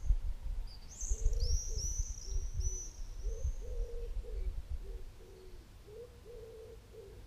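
A bird repeats a low call over and over, several notes a second with short pauses. In the first three seconds a small bird adds a few high, falling chirps. Under both runs a low rumble that fades out about five seconds in.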